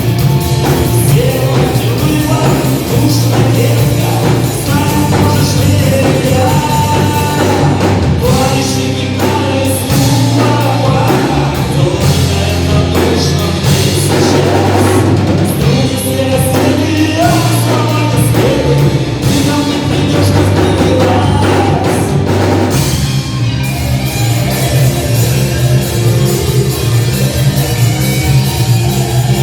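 Rock band playing live: drums, bass and guitars, with a melodic lead line wandering over the top, changing texture near the end.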